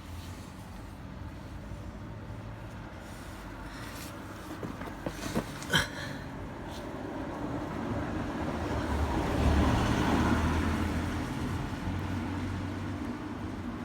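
Car engine running with a steady low rumble. There are a few sharp clicks about five to six seconds in, and the sound swells up around ten seconds before easing back.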